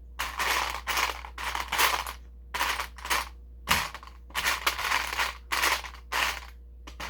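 Loose plastic LEGO pieces being rummaged and pushed around, making irregular rattling clatters about twice a second.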